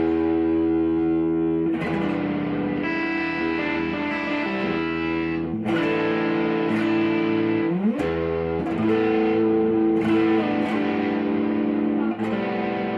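Guitar played through effects, freely improvised: sustained ringing chords, a new one struck every few seconds, with a rising slide partway through.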